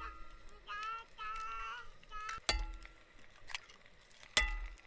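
A metal utensil clinking against a metal dish three times, each sharp clink ringing on briefly at the same pitches, with short high-pitched vocal sounds from a small child in between.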